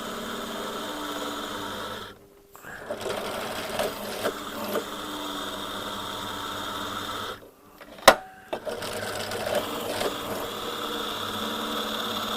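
Electric drill with an HSS cobalt bit running steadily against very hard metal, stopping briefly twice, with a sharp click during the second pause. The bit is making little headway: like drilling through concrete.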